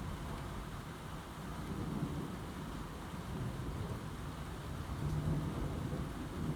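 Low, rolling thunder rumbling and slowly building, loudest about five seconds in, over steady rain.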